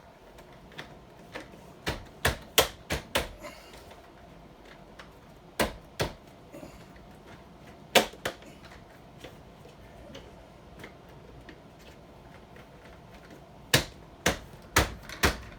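Plastic door trim of a Norcold RV refrigerator being snapped and pressed back into place: a series of sharp clicks and knocks in small clusters, with a quick run of them near the end.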